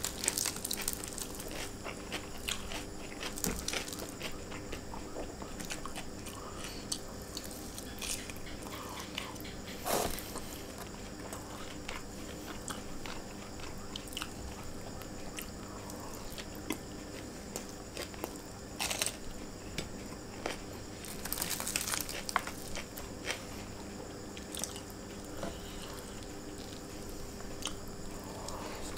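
Close-miked eating sounds of a man eating rice and chicken by hand: chewing and wet mouth noises with scattered short clicks and smacks, and fingers working through rice on the tray. A faint steady hum lies underneath.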